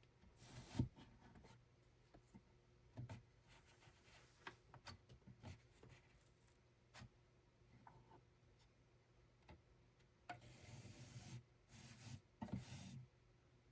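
Faint scratching and rubbing with scattered light clicks and knocks of something being handled; a longer rub comes about ten seconds in and another shortly before the end.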